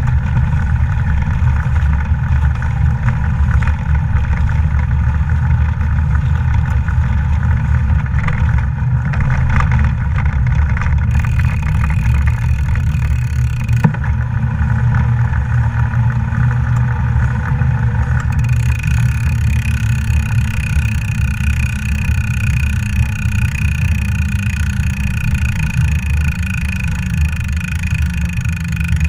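Steady low rumble of wind and road noise on the microphone while riding a bike. About two-thirds of the way through, a few steady high tones join in.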